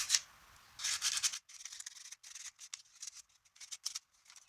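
Very fine P2500 sandpaper rubbed by hand over a small painted fairy-house ornament, taking off loose paint: a couple of longer strokes, then many short, quick, quieter scratching strokes from about a second and a half in.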